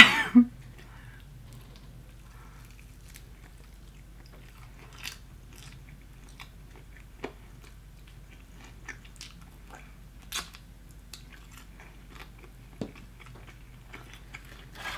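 Close-up chewing and biting of Popeyes fried chicken, with scattered short crunches, the louder ones about 5, 7, 10 and 13 seconds in.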